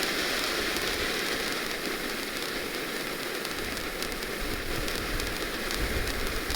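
A small TNT firework ground fountain spraying sparks with a steady, rain-like hiss.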